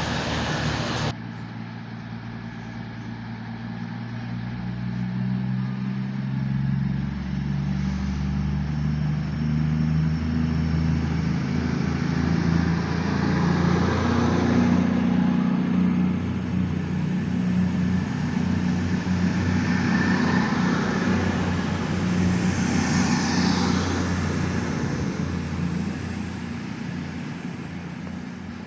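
A train running at the station, its engine note starting abruptly about a second in, growing steadily louder for around ten seconds, holding, then fading near the end.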